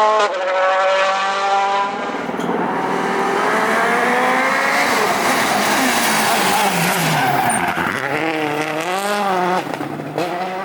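A World Rally Car's 1.6-litre turbocharged four-cylinder engine accelerating hard, its note climbing through upshifts near the start and about two seconds in. The revs then rise and fall quickly near the end, with tyre and gravel noise under the engine.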